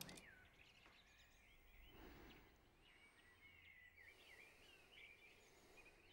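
Faint birdsong: many short chirps and twitters from small birds, over a low background hiss, with a soft swell of noise about two seconds in.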